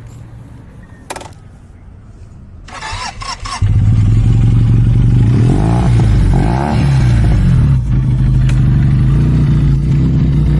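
Motorcycle engine being started: a few seconds of short cranking strokes, then it catches about three and a half seconds in and runs on at a steady idle.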